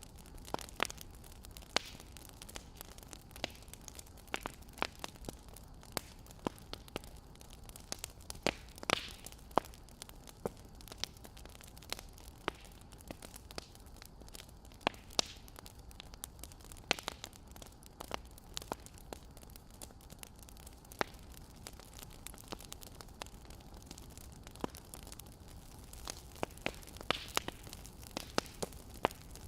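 Wood fire crackling: irregular sharp pops and snaps over a steady faint hiss.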